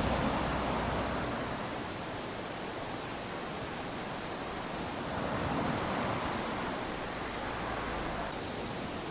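Small waves lapping onto a sandy beach: a continuous wash of surf that swells as a wave comes in around the start and again about halfway through, then eases back.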